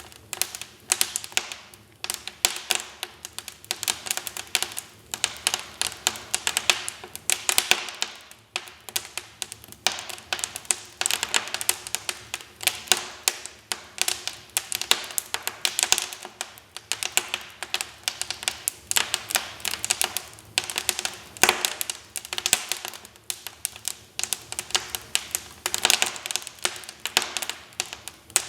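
Wood fire crackling in a fireplace: a dense, irregular run of sharp pops and snaps from burning logs.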